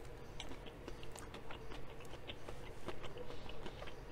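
Close-miked chewing of a crispy fried chicken tender: irregular small crunches and wet mouth clicks.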